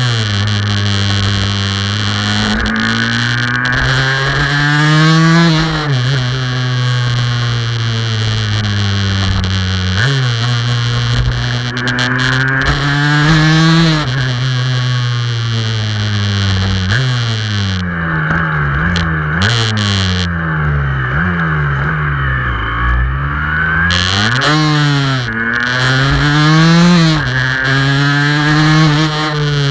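Aprilia RS 125's single-cylinder two-stroke engine under way, its revs repeatedly climbing and then dropping as the throttle is opened and closed, with a run of quick short rev rises and drops in the middle.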